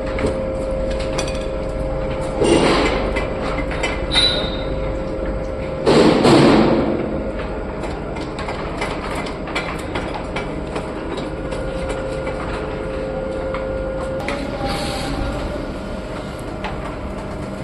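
Metalworking at an aluminium casting furnace: a steady machine hum with a held tone, with scattered metal clicks and two louder metallic scrapes or clanks about two and a half and six seconds in.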